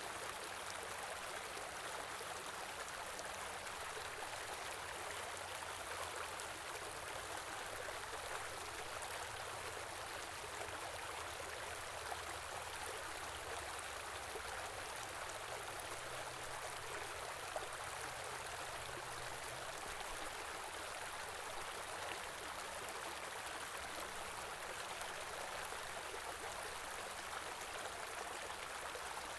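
A small stream running and gurgling steadily, with no pauses or changes.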